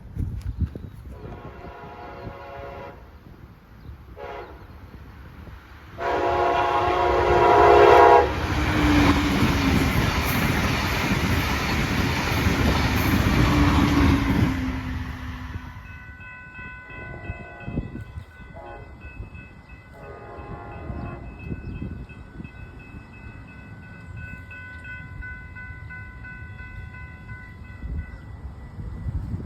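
Brightline passenger train sounding its horn on the approach to a grade crossing, a short blast followed by a loud long one, then rushing past with heavy rail and wheel noise for several seconds. As it pulls away two fainter horn blasts sound, over the steady ringing of the crossing warning bell.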